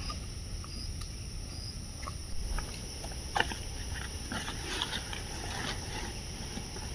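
Forest ambience: a steady high-pitched insect chorus, with scattered clicks and rustles and one sharper click about three and a half seconds in.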